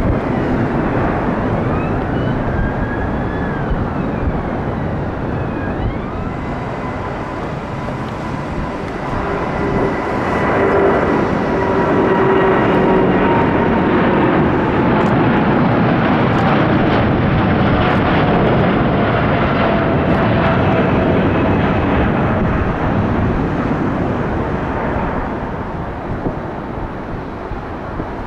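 Jet airliner flying close past, its engine noise swelling about ten seconds in, with whining tones that slowly fall in pitch as it goes by.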